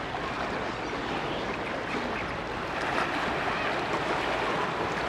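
Steady rushing noise of wind and waves at the waterfront.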